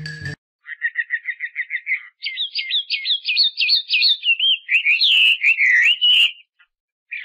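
A songbird singing: a fast run of repeated high chirps, then higher trilled phrases and several swooping whistled notes, ending about six seconds in, with two short chirps near the end.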